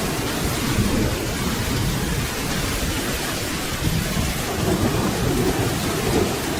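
Steady rain falling, with a low, continuous rumble of distant thunder underneath it.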